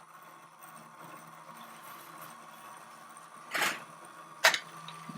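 Crack-off machine on a glass lathe running with a steady hum while cracking off a glass piece. A short hiss comes about three and a half seconds in, then a sharp click about a second later.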